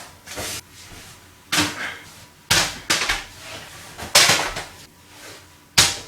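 Paper airplane being handled and thrown: about five short, sharp rustling knocks over six seconds.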